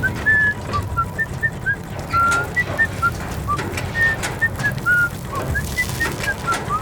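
Bird calling in short, high whistled chirps, several a second at shifting pitches, over a steady low rumble.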